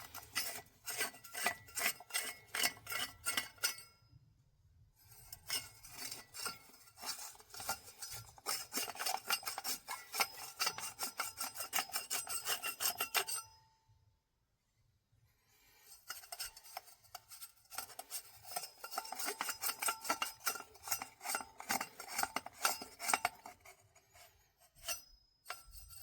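Stiff brush scrubbing carbon deposits out of a coked-up diesel heater heat exchanger, a rapid rasping in repeated strokes, with short pauses about four and fourteen seconds in.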